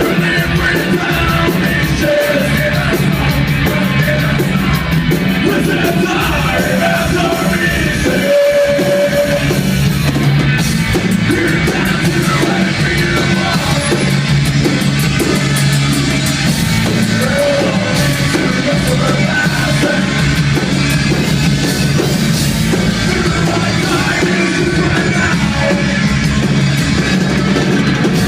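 A rock band playing loud heavy metal live, with shouted singing over the band.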